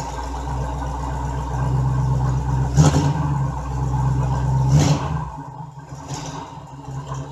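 A vehicle engine running steadily, working harder for a few seconds with two sharp clunks about three and five seconds in, then dropping back to a quieter, lower run.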